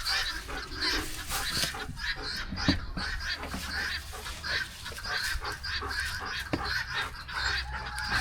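A flock of farm poultry calling: many short, overlapping honking calls that keep up steadily.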